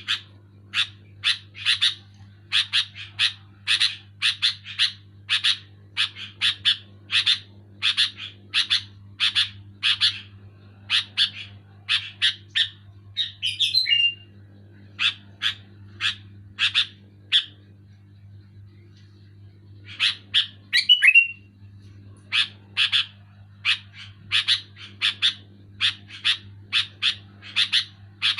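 Sooty-headed bulbul (kutilang) calling insistently in short sharp notes, about two a second, with a few longer scratchy notes and a brief pause about two-thirds of the way through. A steady low hum runs underneath.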